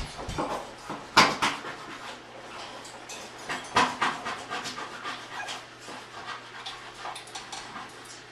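Hand scrubber brush scrubbing a surface in quick, irregular raspy strokes, with two harder strokes about a second in and near four seconds.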